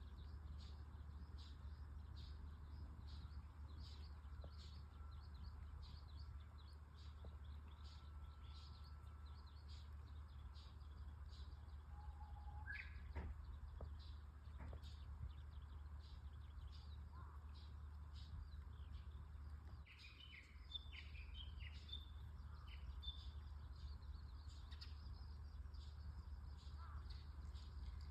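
Songbirds chirping faintly and continually, with one clearer whistled note that jumps up in pitch about halfway through and a brief flurry of calls about two-thirds of the way in, over a steady low rumble.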